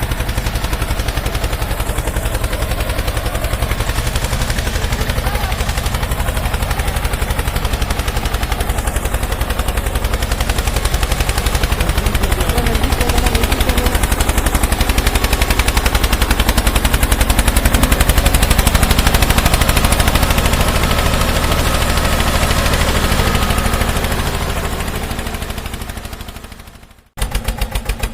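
A tractor engine running with a rapid, even chugging beat. It fades out about a second before the end, then starts again.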